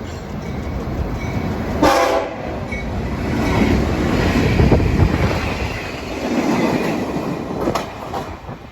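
A passing train rumbling along the rails, with wheel clatter, and a short horn blast about two seconds in.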